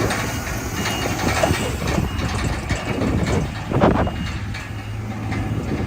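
Heavy diesel engine of earthmoving machinery running steadily, with a brief louder surge about four seconds in.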